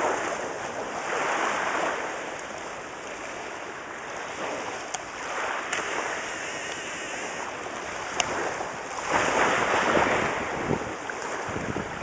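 Waves washing onto the shore, swelling and falling away, with wind gusting on the microphone; a few brief faint clicks in the middle.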